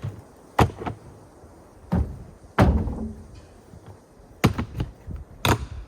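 A handful of separate thuds and knocks, about five, spread over several seconds, like objects being handled or a door being shut; the heaviest comes about two and a half seconds in.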